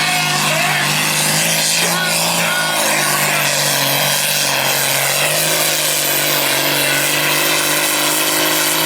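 Pulling vehicle's engine held at full throttle, loud and steady in pitch, as it drags a weight-transfer sled down the pulling track.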